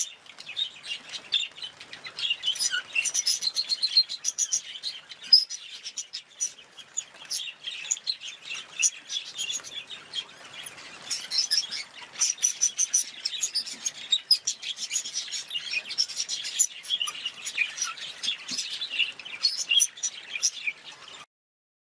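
Budgerigars chirping and chattering in quick, continuous high-pitched twitters, stopping suddenly near the end.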